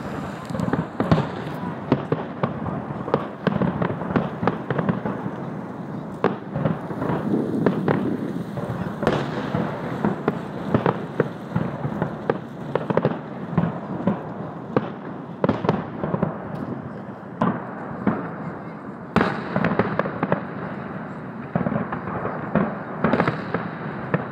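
Fireworks display: aerial shells bursting in a dense, unbroken run of bangs and crackling.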